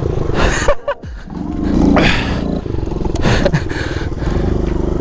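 Small single-cylinder four-stroke pit bike engine, a Kawasaki KLX 110, running and being revved. It drops off briefly about a second in, then climbs again in surges of throttle.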